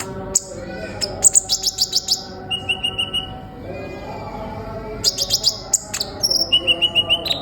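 Kolibri ninja sunbird singing: quick runs of sharp, high repeated chirps and fast trills in several bursts, with a brief lull just before the middle.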